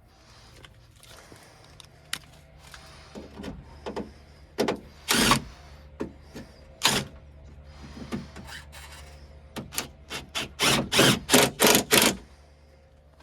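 Hand tools working on a truck door's window and latch hardware: scattered metal clicks, scrapes and knocks, then a quick run of loud strokes, about three a second, near the end.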